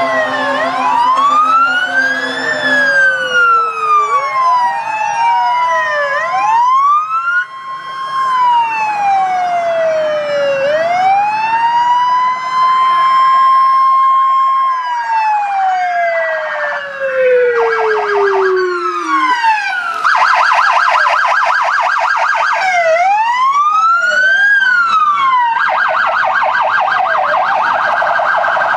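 Several fire truck sirens sounding at once, overlapping wails rising and falling in pitch; one winds up, holds its note for a few seconds and slowly coasts down. From about two-thirds of the way through, a fast yelp takes over alongside the wails. A low steady tone sounds for the first few seconds.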